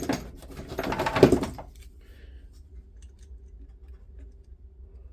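Sharp clicks and knocks of small plastic and metal parts being handled as carbon brushes are fitted into a rotary hammer's brush holders, dying away after about a second and a half to a faint low hum.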